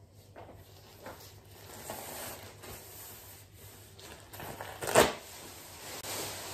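Household tidying noises: things being handled, with soft knocks and rustling and one sharp, louder knock about five seconds in.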